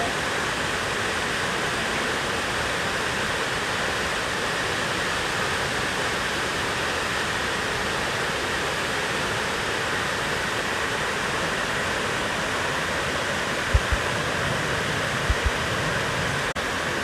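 Steady rushing of a waterfall, with a few short low bumps near the end.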